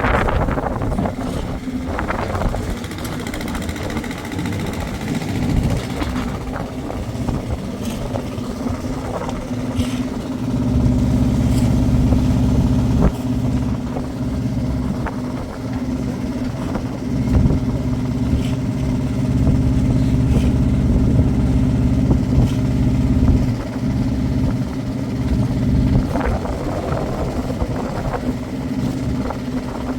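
An engine running steadily with a low hum, getting louder about ten seconds in and dipping briefly now and then, with scattered knocks over it.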